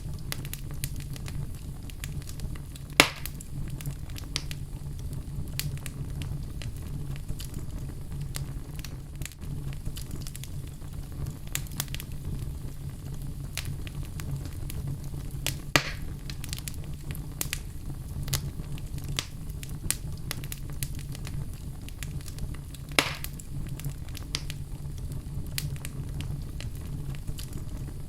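Wood fire burning in a fireplace, a steady low rumble of flames with frequent small crackles and three louder pops.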